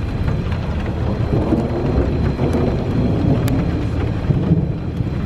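Supercell thunderstorm: a continuous low rumble of thunder, with scattered raindrops ticking.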